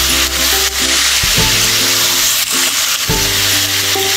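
Chicken pieces sizzling in hot oil in a karahi as they are turned with a spatula, with background music of steady held notes changing about once a second.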